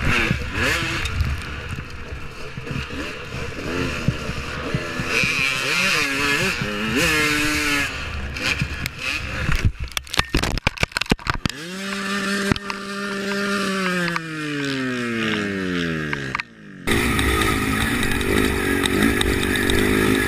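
Dirt bike engines revving with wind noise, then a cluster of sharp knocks about ten seconds in. A single engine then holds its pitch and winds down over a few seconds, and after an abrupt cut another engine runs steadily.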